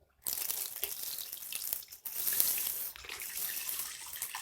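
Water running from a tap and splashing, starting a moment in, with a brief break about two seconds in.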